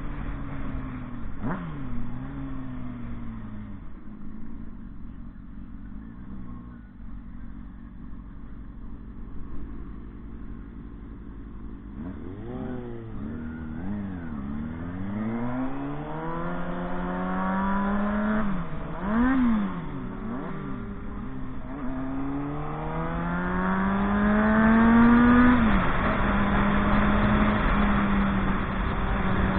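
Motorcycle engine revving up and down, its pitch swinging quickly several times in the middle, then climbing steadily and holding a constant high pitch near the end.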